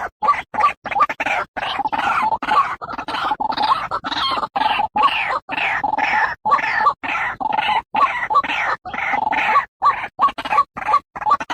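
White-breasted waterhen calling: a loud, fast run of repeated call notes, broken by brief pauses.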